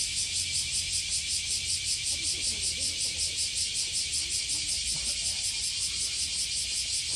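Cicadas droning in a steady, rhythmic pulse, about five beats a second, with faint distant voices in the middle.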